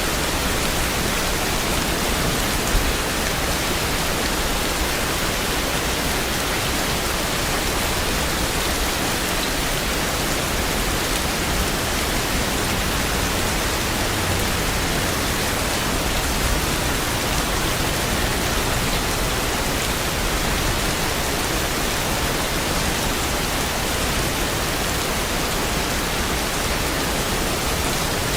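Steady rain, a dense, even hiss that does not change.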